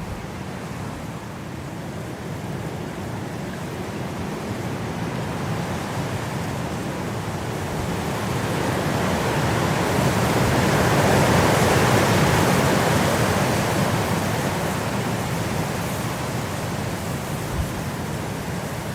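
Wind blowing as a steady rush, a gust swelling up about halfway through and then dying back down.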